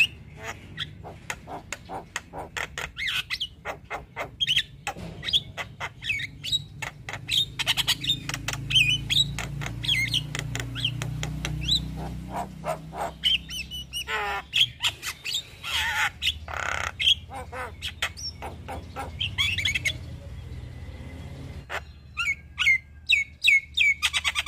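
Javan myna singing a rapid, varied stream of sharp clicks, chirps and harsh squawks, with a short pause near the end before a fast trill.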